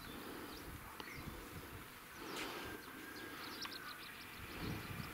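Small birds chirping in short high calls, scattered and then in a quick cluster about three and a half seconds in, over an uneven low rumble of outdoor ambience.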